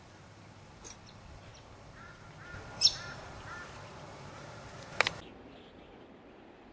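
Faint outdoor background with birds calling, a run of short repeated calls between about two and four seconds in. Two sharp clicks, about three and five seconds in, are the loudest sounds; the second comes as the sound drops away.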